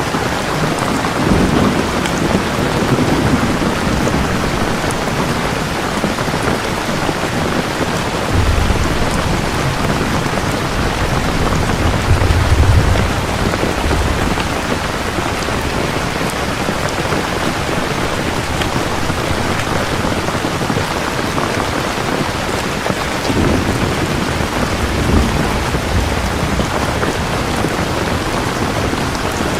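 Steady heavy rain falling, with low rolls of thunder rumbling three times: about a second in, a longer, louder roll from about eight to fourteen seconds, and again near the end.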